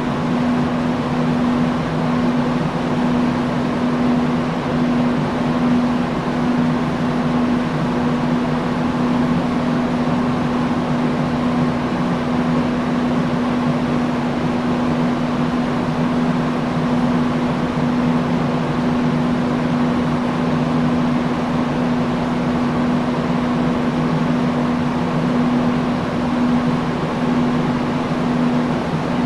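Industrial fan running steadily: an even rush of moving air over a constant low motor hum.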